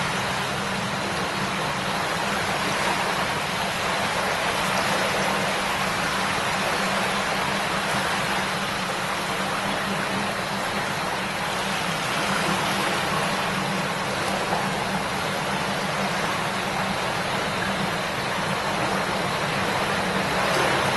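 Shallow river babbling over stones, a steady rush of flowing water with no breaks.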